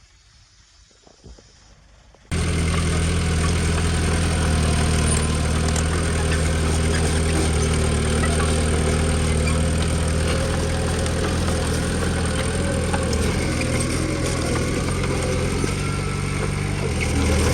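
Heavy diesel engine of earthmoving machinery running steadily. It comes in abruptly about two seconds in after faint background, and its pitch shifts slightly near the end.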